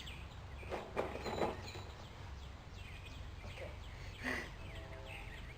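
Birds chirping in the background over a steady low rumble, with a short pitched animal call near the end.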